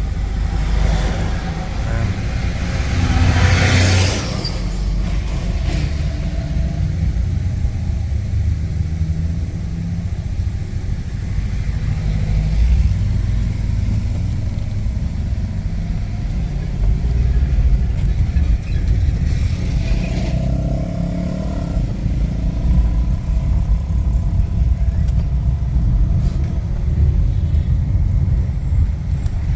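Strong gusty wind buffeting the microphone, a constant low rumble, with city street traffic under it; a vehicle passes loudly about three to four seconds in, and another around twenty seconds in.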